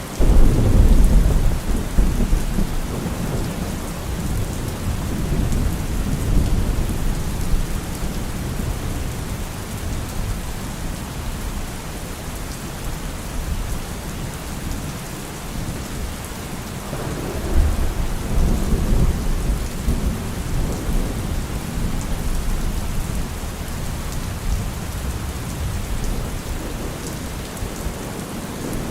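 Steady rain with thunder. A loud, deep rumble breaks in right at the start and fades over several seconds, and a second one rolls in about 17 seconds in.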